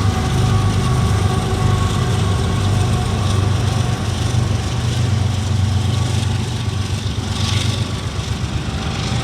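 Freight train passing close by: the diesel engines of mid-train DPU locomotives run with a steady low drone over the noise of wheels rolling on the rails.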